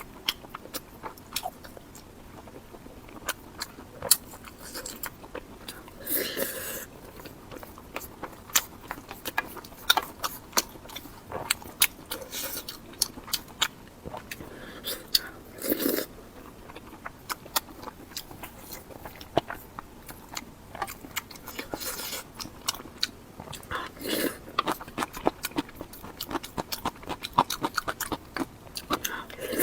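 Close-miked mouth sounds of eating: biting and chewing with a dense run of quick wet clicks and crunches, and a few longer, louder noisy spells about six, sixteen and twenty-four seconds in.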